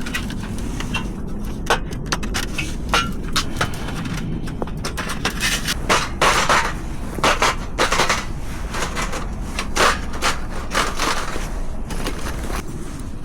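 A run of irregular wooden and hard knocks, clatters and scrapes, typical of camping gear being handled and set down, busiest through the middle, over a steady low rumble.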